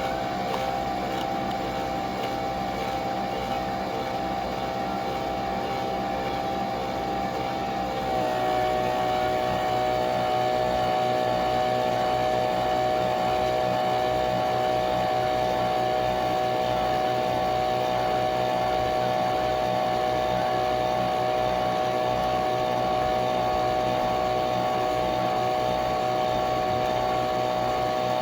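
Nespresso Vertuo Pop+ coffee machine brewing, its motor spinning the capsule with a steady mechanical whine. About eight seconds in the pitch steps down and the sound gets a little louder, then holds steady.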